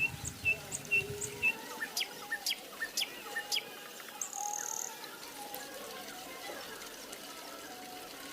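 Small birds chirping: a run of short, sharp chirps about twice a second in the first few seconds, then a brief high whistle and scattered softer calls.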